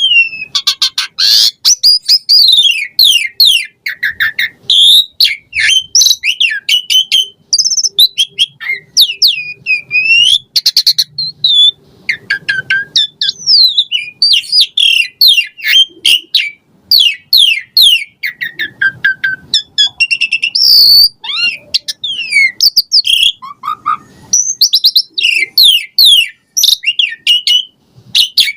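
Asian pied starling (jalak suren) singing a long, varied song without pause. It mixes clear whistles, rapid trills and notes that slide up and down, full of borrowed calls.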